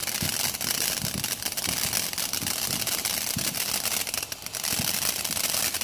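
Ground fountain firework spraying and crackling: a dense, unbroken run of rapid small pops over a hiss.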